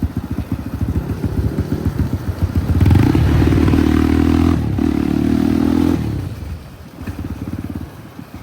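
Dirt bike engine running at low revs with a rapid, even pulse. About three seconds in it is opened up and runs louder for about three seconds, with a brief dip in pitch midway, then eases back to the lower pulsing.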